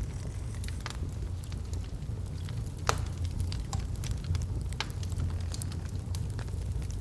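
Log fire burning in a fireplace: a steady low roar with scattered crackles and pops, the sharpest pop about three seconds in.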